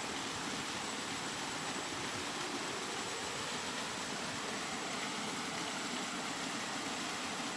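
Steady rain, an even hiss with no single drops or gusts standing out, and a faint thin high tone held throughout.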